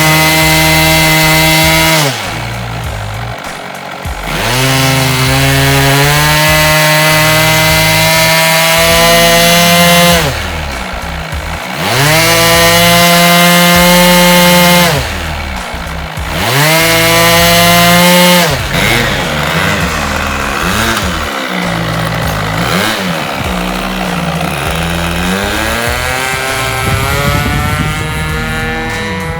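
Engine of a radio-controlled scale Cessna 182 model aircraft revving. It is held at high throttle for a few seconds at a time, cut back sharply to a low idle and brought back up, three or four times. In the last third it runs at lower, varying throttle with quick blips, then climbs again near the end.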